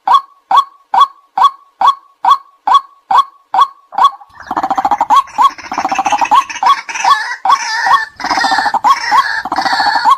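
White-breasted waterhen calling: a short sharp note repeated evenly about two to three times a second. From about four seconds in, a rougher, busier chorus of calls joins over the repeated note until near the end.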